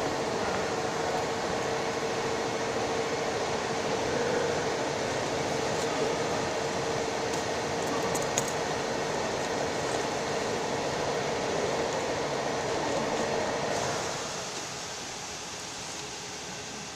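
Steady machine noise with a constant humming tone, like a fan or motor running; it drops to a quieter level about fourteen seconds in.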